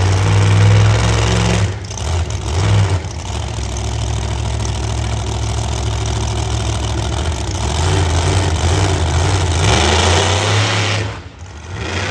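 Monster truck's engine running loud and revving, easing briefly a couple of times and dropping off sharply about eleven seconds in.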